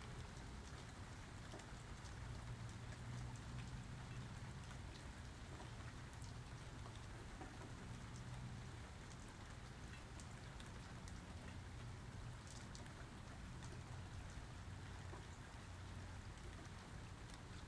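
Steady rainfall, with many individual drops ticking and pattering against a continuous hiss, and a low rumble underneath that swells and fades.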